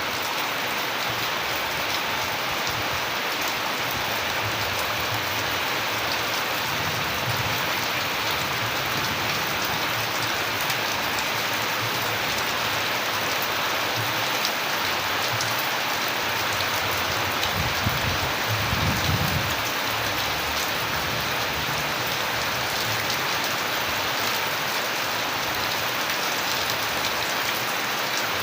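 Steady rain falling and pattering on surfaces, a dense, even hiss of many drops. About two-thirds of the way in there is a brief low rumble.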